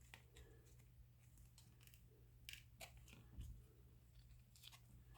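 Near silence with faint, scattered soft clicks and rustles of paper baseball cards being flipped and slid through the hands.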